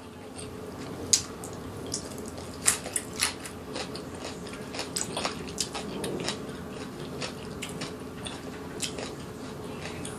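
Close-up eating sounds: biting and chewing food, with scattered sharp clicks and taps, over a steady low hum.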